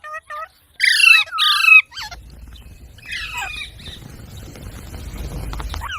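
Parrot squawking: short calls at first, then two loud harsh squawks about a second in, and another run of calls about three seconds in over a low background rumble.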